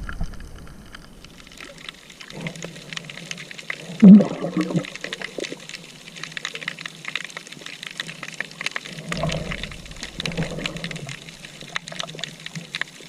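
Sea water gurgling and sloshing, with a fine steady crackle throughout and a few muffled low surges, the loudest about four seconds in.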